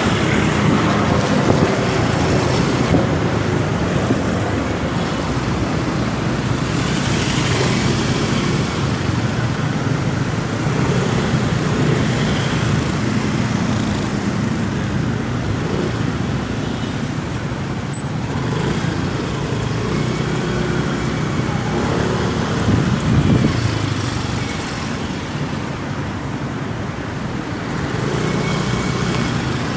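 Motorcycle riding through road traffic: its engine runs steadily with the noise of surrounding vehicles, and one short sharp click comes a little past the middle.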